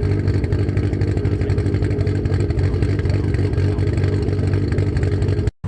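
Nissan Skyline R32's engine running at a steady, lumpy idle, cutting off abruptly just before the end.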